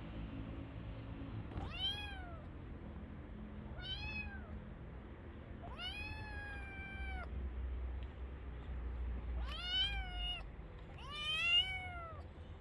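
Cat meowing five times, each call rising then falling in pitch; the third is drawn out longer and the last is the loudest.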